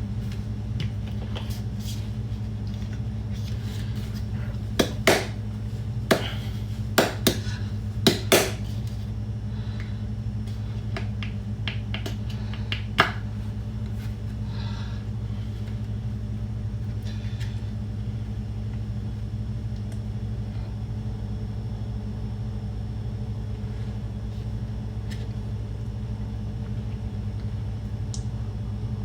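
Kitchen work sounds over a steady low hum: a quick run of sharp clicks and knocks about five to eight seconds in, then one more about thirteen seconds in, like utensils and dishes being handled.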